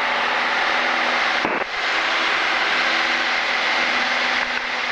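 Light single-engine piston aircraft's engine running steadily at climb power, heard from inside the cockpit.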